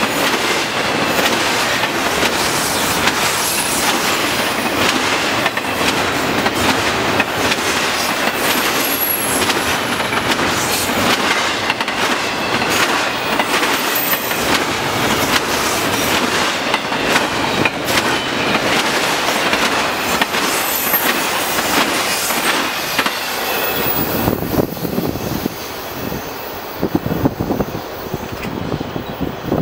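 Double-stack intermodal freight cars rolling past close by: a steady rumble of wheels clicking over rail joints, with occasional high wheel squeals. About 24 s in, the last car passes and the noise drops to a fainter, receding rumble.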